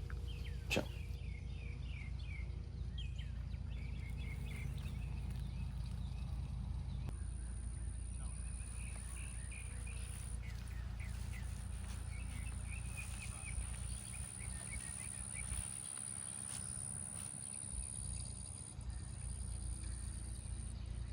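Outdoor ambience of birds chirping in repeated short series over a steady low rumble. A thin, steady high-pitched tone comes in about a third of the way through, and there is a single sharp click just under a second in.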